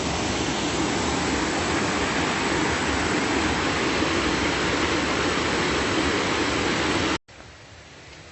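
Waterfall, about 20 metres high, rushing steadily from its top. About seven seconds in the sound cuts off abruptly to a much quieter hiss.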